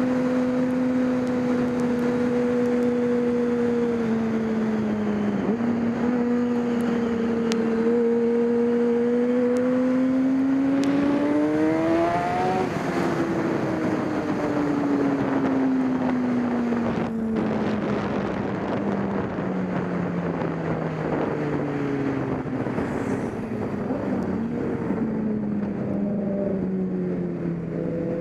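Racing motorcycle engine running hard under a steady rush of noise. Its pitch holds, climbs to a peak about twelve seconds in, then falls slowly in a few small steps for the rest of the time.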